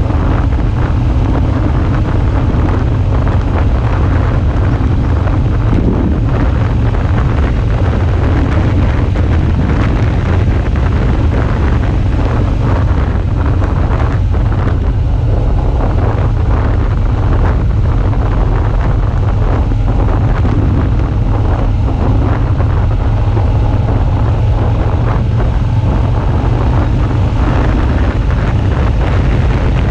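Wind rushing over the action camera's microphone while riding a Suzuki V-Strom 650, with the motorcycle's V-twin engine running underneath.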